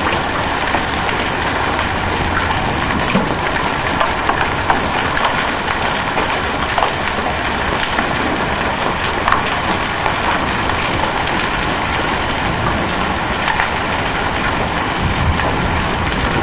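Hail of about penny to quarter size pelting down with little or no rain: a dense, steady clatter of stones striking hard surfaces, with sharper single impacts standing out now and then.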